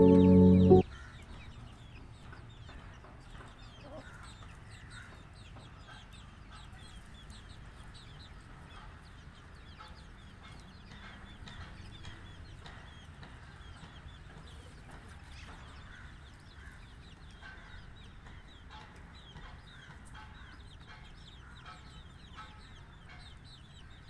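Chicks peeping continuously in many short high chirps, with a mother hen clucking among them. Loud background music cuts off about a second in.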